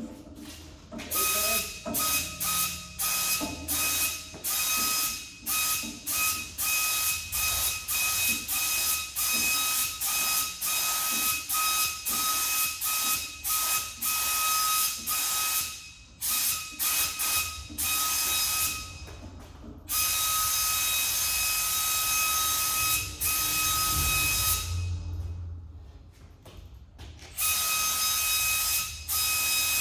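Compressed-air paint spray gun shooting primer: a hissing rush with a steady whistle, turned on and off in many short trigger pulls, with a longer pass of several seconds past the middle.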